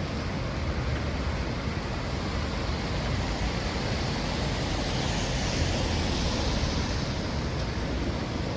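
Steady rain and wet-street noise with a low rumble throughout; a hiss swells and fades about five to seven seconds in.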